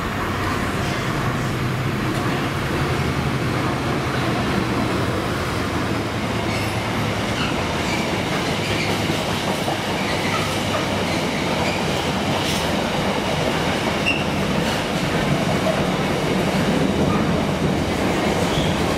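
Diesel-hauled freight train passing close by. The locomotive's engine hums low at first, then a long run of flat and container wagons rolls past with steady wheel clatter and a few brief squeals.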